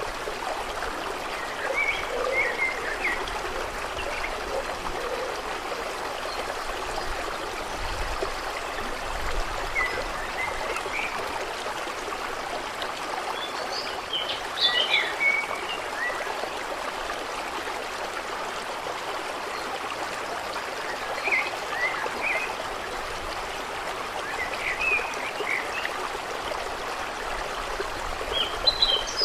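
Water flowing and trickling steadily, with scattered short high chirps from small animals in several brief clusters.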